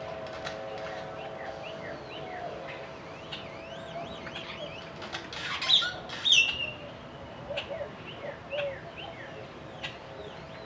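Wild birds chirping and singing: many short, quick calls that rise and fall in pitch, loudest about six seconds in. A faint steady hum lies underneath through the first half.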